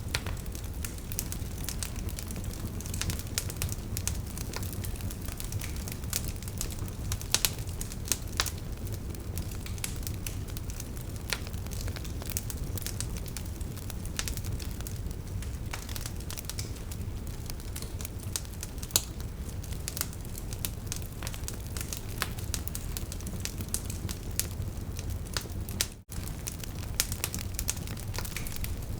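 Wood fire burning, with a steady low rumble of flames and irregular sharp crackles and pops from the logs. The sound cuts out for a split second near the end.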